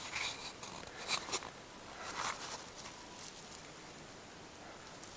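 A few faint, brief rustles and scuffs, clustered about a second in and again around two seconds in, then near quiet.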